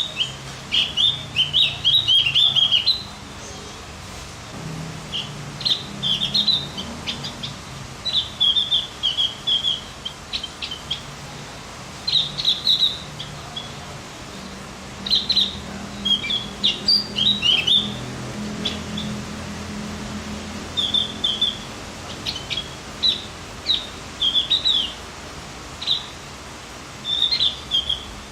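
Javan grey-throated white-eye (opior Jawa) singing: short, fast chattering phrases of high chirps, one every second or two, over a faint low hum.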